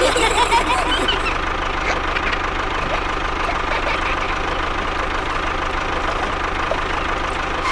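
Engine idling steadily with a fast, even low throb, the engine sound of a mini bulldozer or tractor. A few short squeaky chirps sound in the first second.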